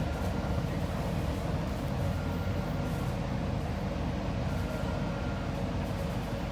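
MTR C-stock (C-train) metro train running, a steady low rumble with a faint thin whine that comes and goes about every two and a half seconds.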